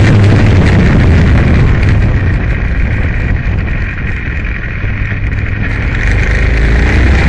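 Aprilia Tuono motorcycle engine running hard under heavy wind rush; the sound eases off about halfway through, then builds again with a rising engine note near the end.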